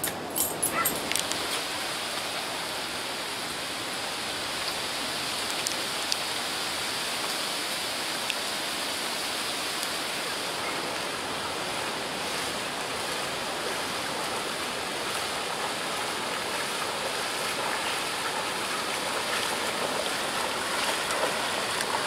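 Steady rushing of moving water, an even, unbroken wash of noise, with a few small clicks in the first second.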